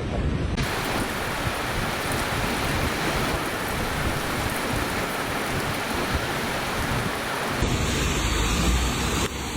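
Steady, dense rushing noise of storm weather: heavy rain and water with wind. It changes abruptly about half a second in and again near the end, where one recording cuts to the next.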